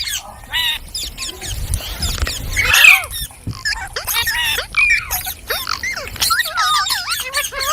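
Several green parrots chattering and squawking, with rapid, overlapping chirps that swoop up and down in pitch and a louder harsh screech about three seconds in.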